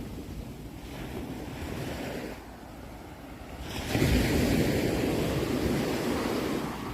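Sea waves on a shore: a short lull, then a wave breaks about four seconds in and slowly washes out, with wind rumbling on the microphone.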